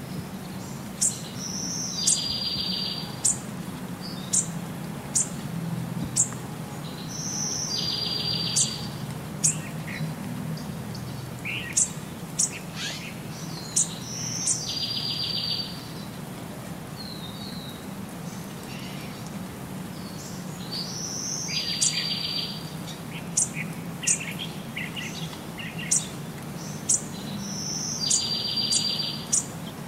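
Songbirds chirping and calling. The same phrase, a short high note then a buzzy trill, comes back about every six and a half seconds, with scattered sharp high chirps between.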